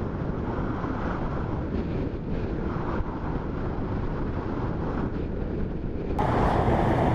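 Motorcycle riding noise: steady engine rumble and wind buffeting on the microphone. About six seconds in it cuts abruptly to a louder, brighter recording of the same kind of riding noise.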